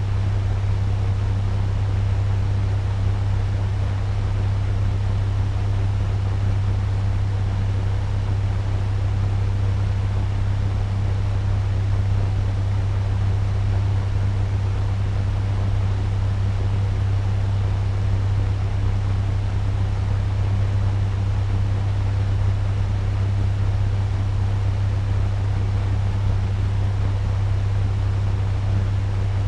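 Turbo fan running at medium speed: a steady rush of air over a strong low hum that does not change.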